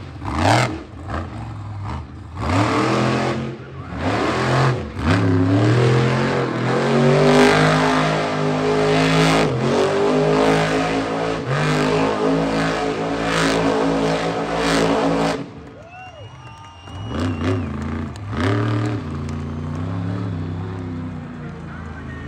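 Monster truck engine revving hard, its pitch rising and falling with the throttle. It cuts off sharply about fifteen seconds in, gives a few short blips, then runs again more quietly near the end.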